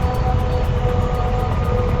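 Steady low rumble of a motorcycle riding in traffic, with long held tones over it.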